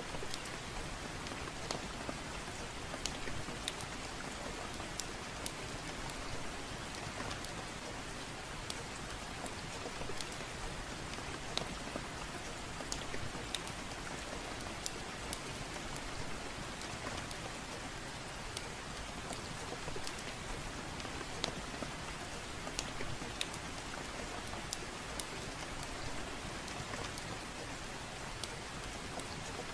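Steady soft rain, with irregular sharp crackles of a wood fire in a fireplace popping through it every second or two.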